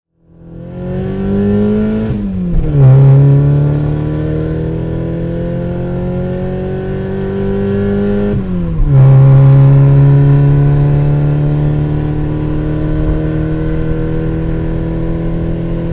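Car engine accelerating through the gears: the pitch climbs slowly and drops sharply at two gear changes, about two seconds in and again near nine seconds in. It is a dubbed-in sound effect for a toy car, fading in at the start.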